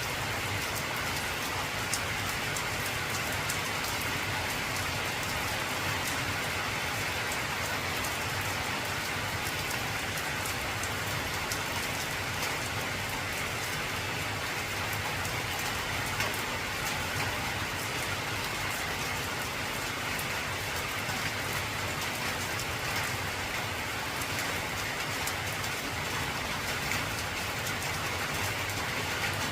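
Heavy rain falling steadily on an old galvanised tin roof: a dense, even patter with the sharp ticks of single drops on the metal.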